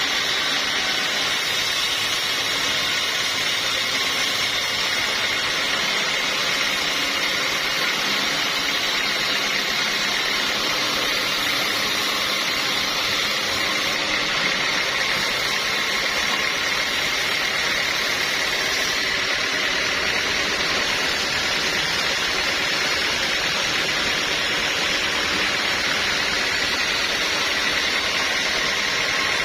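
Sawmill machinery running steadily, a constant mechanical drone with a steady high whine.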